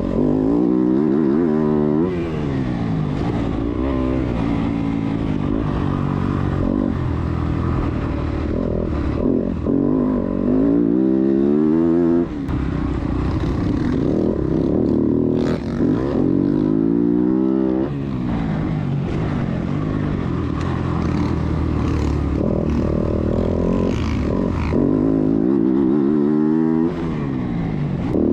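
250cc motocross bike engine being ridden hard around a track, its pitch rising and falling repeatedly as the throttle is opened and shifted through the gears. The throttle is chopped briefly several times, near 2, 12, 15, 18 and 27 seconds in.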